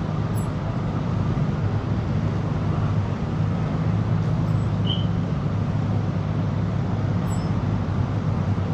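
Car engines running with a steady low drone, as in slow-moving traffic.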